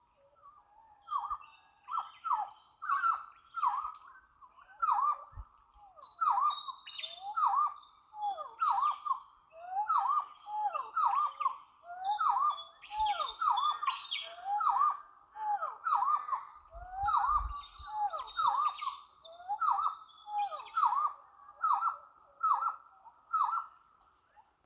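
Birds calling over and over: a steady run of short, hooked notes about once a second, with thinner high chirps mixed in.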